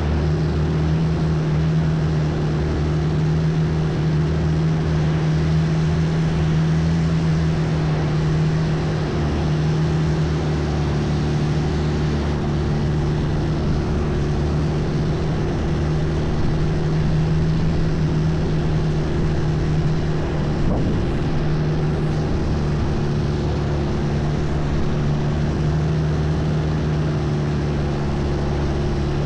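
Longtail boat's engine running at a steady cruising speed: a loud, even drone over a constant rushing noise.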